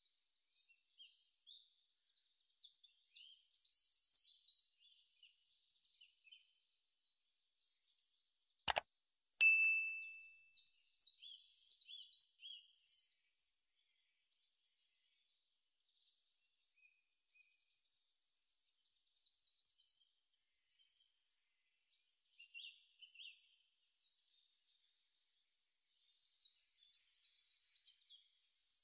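Birds singing in repeated high, rapid chirping and trilling phrases a few seconds long, with pauses between them, as a nature-sound background. A sharp click comes about nine seconds in, followed by a short ding.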